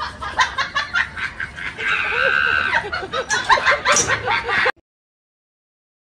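A person laughing in quick, snickering bursts, with a held high-pitched squeal about two seconds in; the sound cuts off suddenly near the end.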